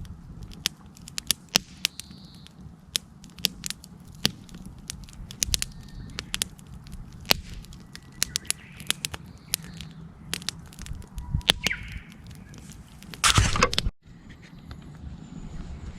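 Wood campfire crackling, with sharp, irregular pops and snaps over a low steady hiss. About thirteen seconds in there is a louder rustling burst lasting about a second, then the sound cuts out briefly.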